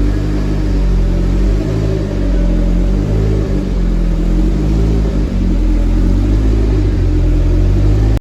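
Car engine running steadily, its pitch rising and falling a little; it cuts off abruptly at the end.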